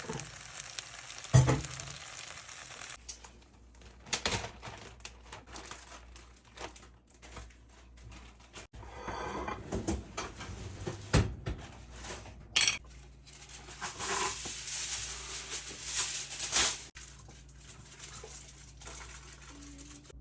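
Kitchen preparation sounds: dishes and utensils knocking, clinking and scraping at irregular intervals, with the loudest knock about a second and a half in.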